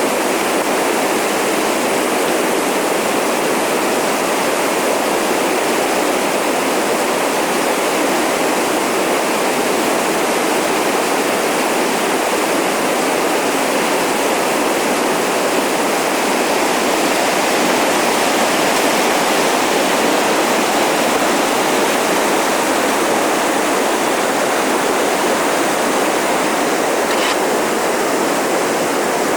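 Whitewater river rushing through rapids, a loud, steady roar of water.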